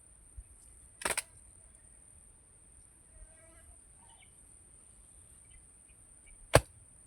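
Two sharp impacts from work tools on a fish-pond earth bank, one about a second in and a louder, sharper one near the end. A steady high insect drone and a few faint bird chirps run underneath.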